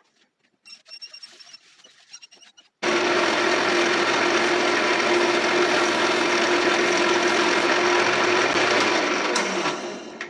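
A wood lathe starts about three seconds in and runs steadily with a motor hum and a rushing hiss while friction polish is buffed onto the spinning vase with a paper towel. Near the end the lathe is switched off and winds down.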